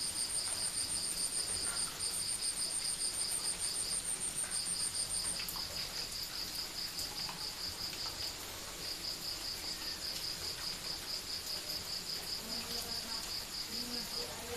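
Crickets chirping at night in a steady rhythm of about four chirps a second, in runs with brief pauses. A second, higher-pitched insect pulses along with them and stops about five seconds in.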